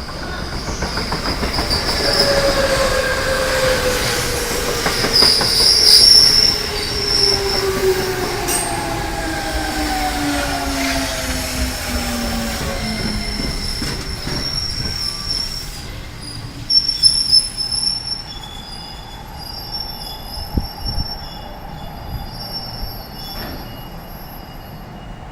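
JR 209-500 series electric train with renewed IGBT-VVVF inverter equipment pulling out of a station: motor and inverter whine in several tones that glide downward over about ten seconds, with sharp high squeals about six seconds in and again around seventeen seconds. This set makes an odd noise since its equipment renewal, which the owner takes to be harmless to running.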